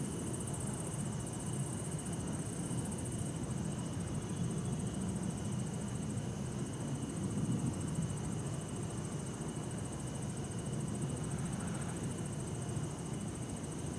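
Crickets trilling steadily at night in a high, continuous, finely pulsing chorus, over a low, even rumble of distant city traffic.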